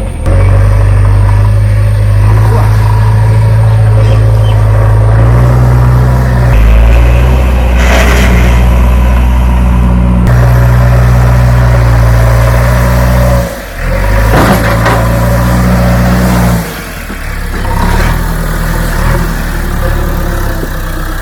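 JCB 3DX backhoe loader's diesel engine running as the machine works, its note stepping up and down several times between idle and higher revs, with a few short knocks.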